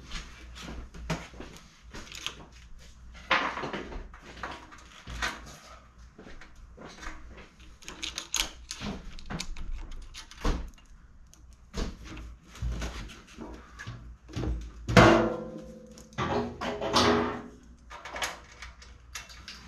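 Irregular knocks, clicks and clanks of metal parts and tools being handled, with two louder ringing clanks about 15 and 17 seconds in.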